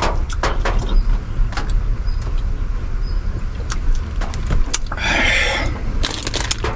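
Dry instant noodles being crunched and chewed, with scattered crisp cracks and a packet rustle about five seconds in, over a steady low rumble inside a car.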